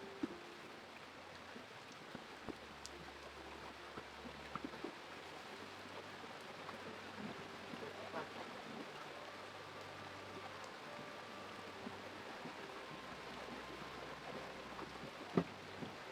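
Steady hiss of water, like rain, with scattered light ticks and one sharper click near the end.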